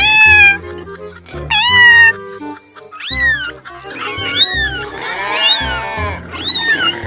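Domestic cat meowing repeatedly, about six separate meows, each with a sliding, falling pitch.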